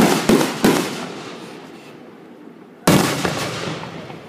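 Aerial fireworks shells bursting overhead: a quick run of three bangs at the start, then one more loud bang about three seconds in, each fading away in a long echo.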